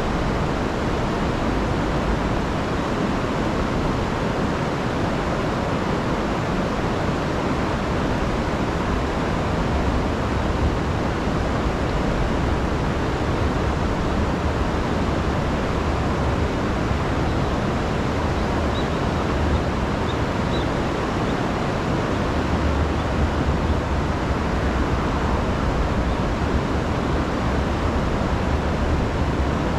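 Steady rushing of a river running high over falls, swollen after a week of heavy rain.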